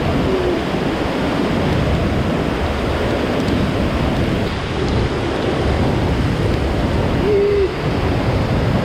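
Steady rushing-water noise from a waterfall or surf, with two brief low tones, one just after the start and one near the end.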